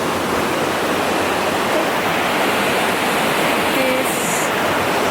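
Steady, loud rush of mountain water from a waterfall.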